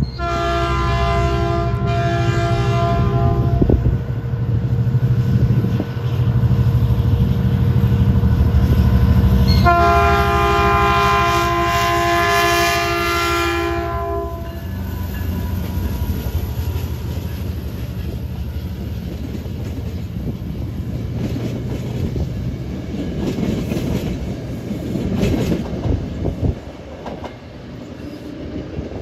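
Metrolink diesel locomotive SCAX 868 sounding its multi-tone horn in two long blasts, one at the start and one about ten seconds later, over the steady rumble of its engine. The train then passes close by with wheels clattering on the rails.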